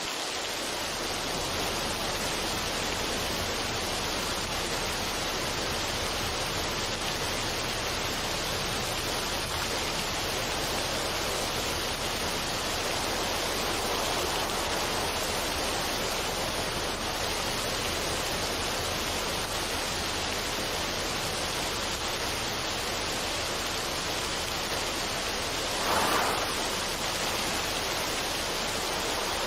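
Steady, even rushing noise with no music or tones, of the soothing noise-track kind, with a brief swell about 26 seconds in.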